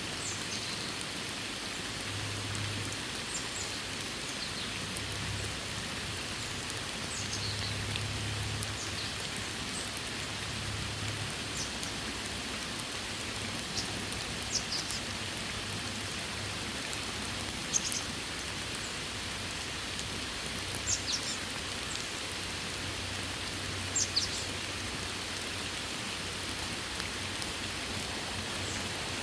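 Steady rain falling, an even hiss with a few sharper high ticks standing out over it now and then.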